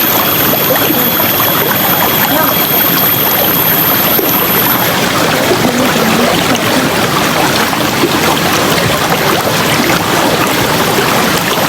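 River water flowing over rocks in a steady, dense rush with some trickling.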